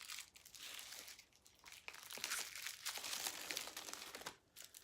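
Small plastic bags of diamond painting beads crinkling as they are handled, in irregular patches with a short pause near the end.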